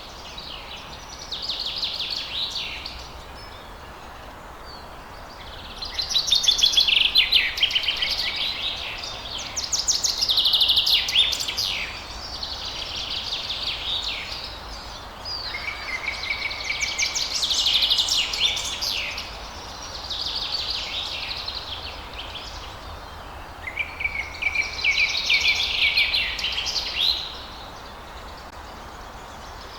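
Songbirds singing: about seven phrases of rapid trilled notes, each two to three seconds long with short pauses between, over a steady background hiss.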